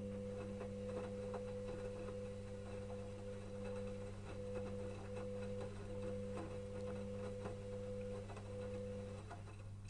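Electrolux EWS 1045 front-loading washing machine in its wash phase: the motor whines steadily as the drum turns, with the laundry tumbling in light clicks and knocks. The motor stops about nine seconds in, leaving a low hum.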